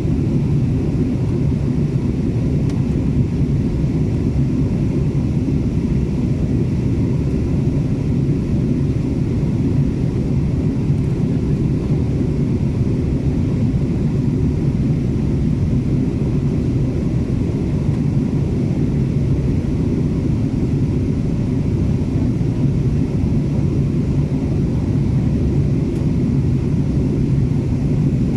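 Steady low rumble inside an Airbus A330's passenger cabin in flight: engine and airflow noise that holds even throughout.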